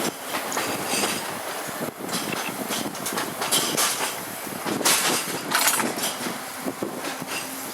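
Electric tram in motion, with the rumble and clatter of its wheels on the narrow-gauge track and several louder clattering bursts, heard from aboard.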